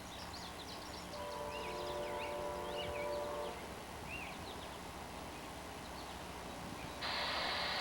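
Songbirds chirping outdoors, with a distant train horn sounding one held chord for about two seconds, starting about a second in. Near the end the background noise jumps up suddenly.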